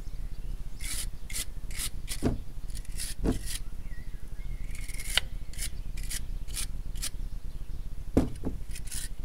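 Short scraping and rubbing strokes with a few light knocks, from handling a brake hose and its fittings while connecting it to the caliper.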